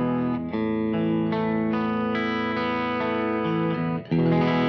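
Electric guitar (Fano Omnis MG6) played through a Marshall Origin 50 amp head and 4x12/4x10 cabinet impulse responses, strumming ringing chords starting from an E chord. The chord changes about half a second in and again near the end.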